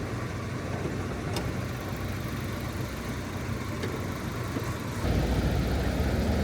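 A car driving, with a steady low engine and road rumble that gets louder about five seconds in.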